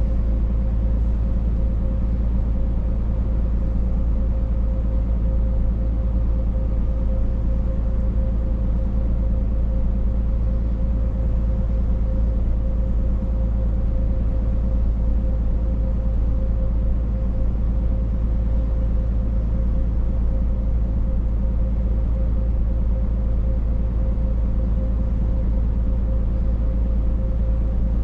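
Scania truck driving at a steady speed: a constant low engine and road rumble with a steady whine running through it.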